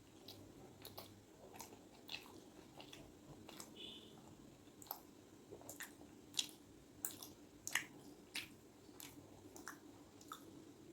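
Close-up mouth sounds of a person chewing and biting food: soft, wet chewing with irregular sharp clicks and smacks, a few louder ones a little past the middle.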